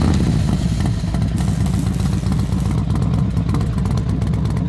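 Honda Rebel 250 parallel-twin motorcycle engine running steadily just after starting.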